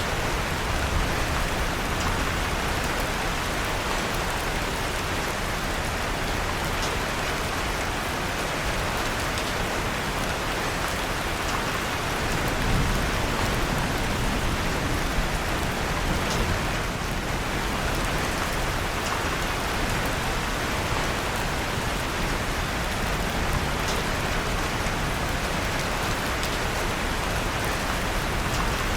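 Steady rain falling on a surface, mixed with the faint crackle of a wood fire in a fireplace: small scattered ticks over an even hiss.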